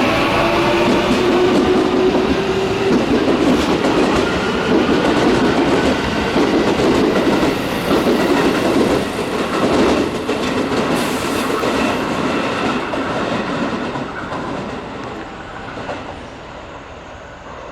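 Electric commuter train pulling away from the station: its traction motors whine and rise in pitch as it accelerates, then its wheels clatter over rail joints and the sound fades as it leaves.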